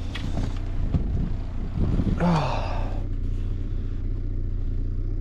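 Boat's outboard motor running steadily at trolling speed, a low steady hum. A brief voice-like sound comes about two seconds in.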